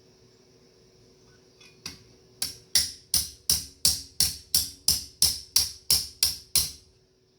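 Hammer striking metal on an anvil while forging a metal strap: a light tap, then a steady run of about thirteen ringing blows, roughly three a second, that stops near the end.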